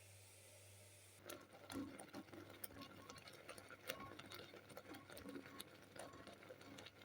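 Faint room hum, then from about a second in a quick, irregular run of small clicks, taps and rustles, like objects being handled close to the microphone.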